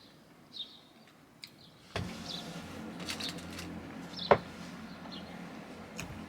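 Birds chirping faintly, then about two seconds in a steady low engine hum starts up nearby and keeps running, with one sharp click a little after four seconds.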